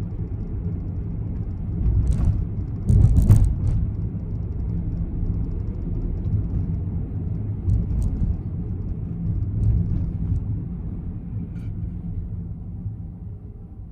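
Honda N-BOX's S07A three-cylinder engine and the car running, a steady low rumble heard inside the cabin, with a few brief clicks or rattles about two and three seconds in. The rumble fades off near the end.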